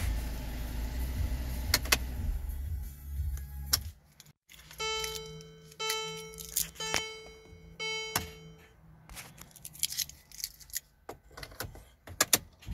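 A car engine idles with a steady low hum and a few clicks, then stops about four seconds in. Next a single-pitched chime sounds four times, about once a second, followed by light clicks and rattles like keys being handled.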